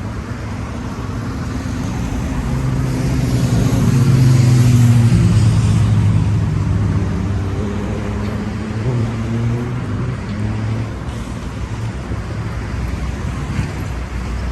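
Road traffic, with a motor vehicle passing close by: its engine hum swells to its loudest about four to five seconds in, then fades into the steady traffic noise.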